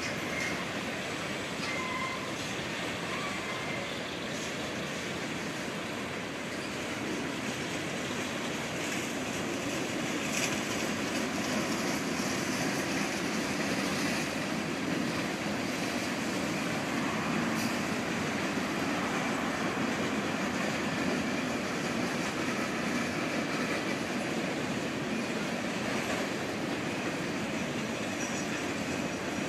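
Mixed freight train cars rolling past at steady speed: steel wheels on rail make a continuous rumble and rattle that grows a little louder about ten seconds in.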